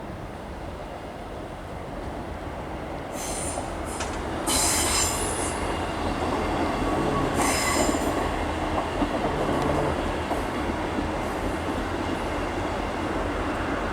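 Passenger train moving through a station: a rumble that grows louder, with high-pitched metallic squeals from the wheels or brakes about three seconds in, again at four and a half seconds, and again at seven and a half seconds.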